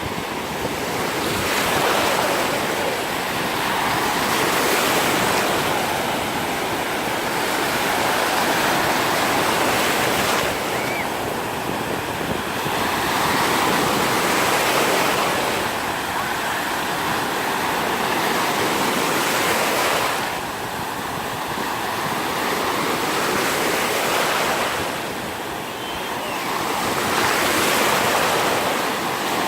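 Sea waves breaking and washing up a sandy beach, the surf swelling and easing every few seconds, with wind buffeting the microphone.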